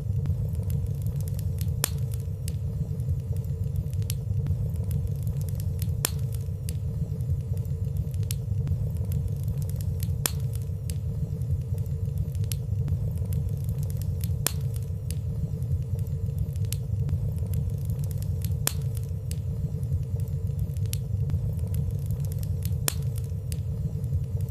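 Fireplace fire burning softly: a steady low rumble of flame, with small crackles ticking at irregular intervals and no loud pops.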